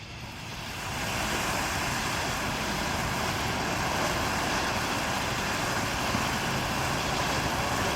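Car running and moving, heard as a steady rushing noise that builds over about the first second and then holds.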